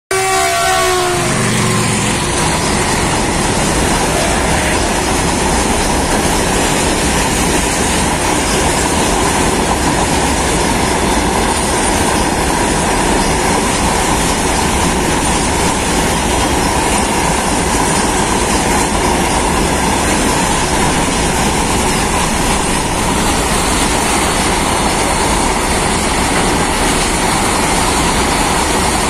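Freight train of open box wagons rolling past at speed: a loud, steady noise of wheels on rail. The locomotive's horn sounds briefly at the very start, cut off within about a second.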